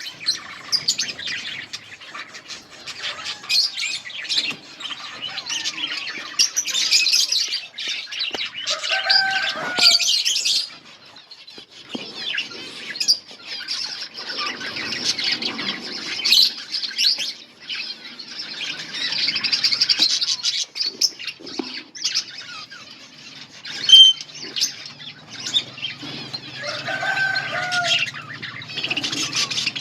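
A colony of budgerigars chattering and chirping continuously, many birds at once, with a few lower, harsher calls in between.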